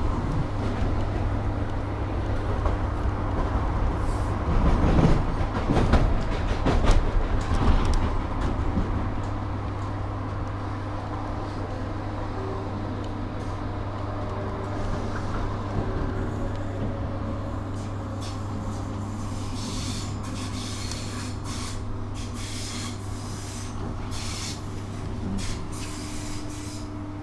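Train running on the track with a steady low hum. It is loudest about five to eight seconds in, and a run of sharp clicks comes near the end.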